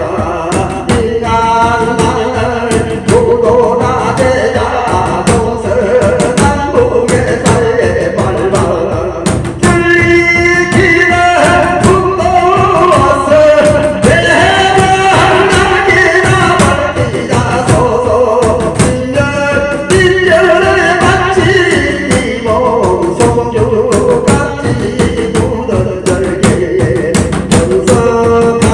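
Korean shamanic scripture chanting (gyeongmun): a solo voice sings a melismatic chant over rapid, steady drum beats.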